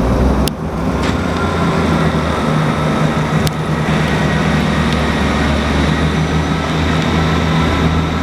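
GWR Class 158 diesel multiple unit's diesel engines running with a steady low hum, with a couple of brief sharp clicks.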